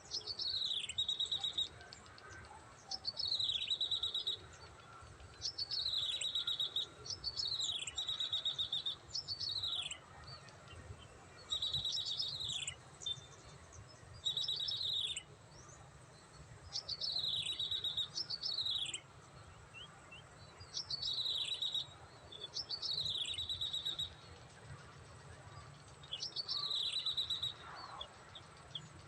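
Prinia (prenjak) call repeated over a dozen times: each phrase is a quick falling whistle followed by a short buzzy trill, coming every one to three seconds.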